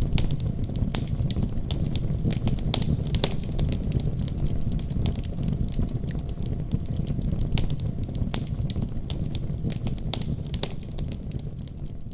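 Wood fire burning in a fireplace: a steady low rush of flame with frequent, irregular sharp crackles and pops from the logs, growing slightly quieter near the end.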